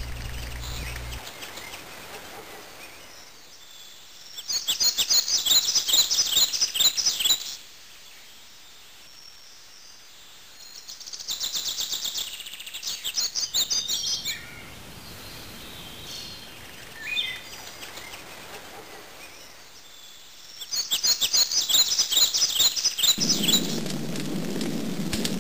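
A songbird singing outdoors in three bouts of rapid, high-pitched trilled phrases, with a few falling notes between them. Near the end a steady low rushing noise comes in.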